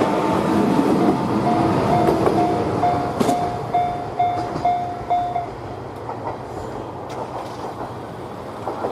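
A train passing over a Japanese level crossing while the crossing bell rings in even strokes, about two a second. About five and a half seconds in, the bell stops and the train sound fades, meaning the train has cleared the crossing.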